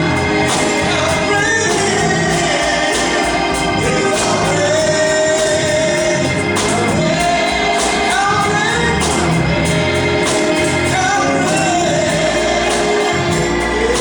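Gospel music with singing over a steady beat, sung by a choir.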